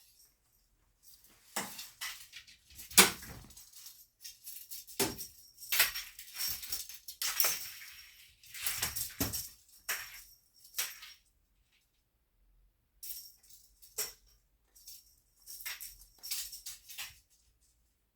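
Cat wand toy jingling and rattling in irregular bursts as it is swished and batted, with a few sharp knocks, pausing briefly about two-thirds of the way through.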